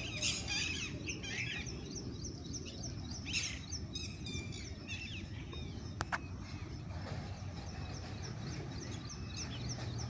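Wild birds calling outdoors: a few louder calls near the start and about three seconds in, then a long run of short high chirps repeated a few times a second, over a steady low background rumble.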